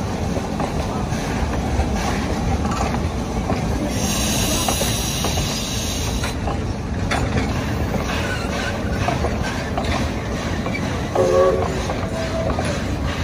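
Train of open passenger cars rolling along the track behind the Shay geared steam locomotive Dixiana, a steady rumble of wheels on rail. A high wheel squeal sounds for about two seconds, starting about four seconds in.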